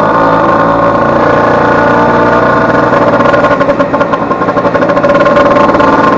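Vespa 150's single-cylinder two-stroke engine running steadily on the move, its cush-drive gear recently replaced after it had failed. About halfway through the note dips and pulses unevenly for a moment, then steadies again.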